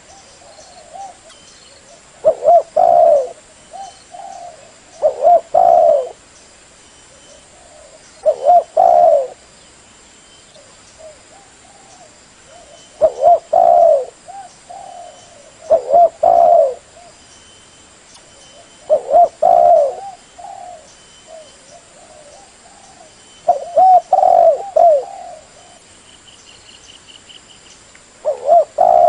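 Spotted dove (terkukur) cooing: a phrase of several low coos about every three seconds, repeated eight or nine times.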